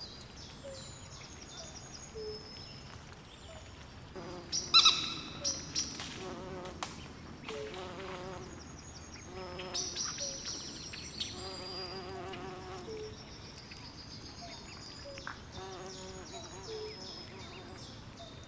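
Night swamp chorus of frogs and insects: many short, repeated high chirps over rows of lower pulsed calls. A louder burst of calls comes about five seconds in, and another about ten seconds in.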